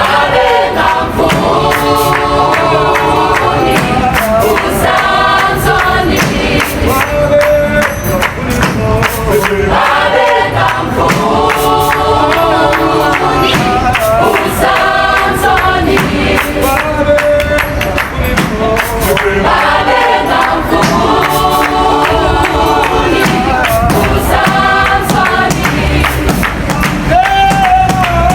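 Music with a choir of voices singing in harmony over steady percussion, the sung phrase repeating every few seconds.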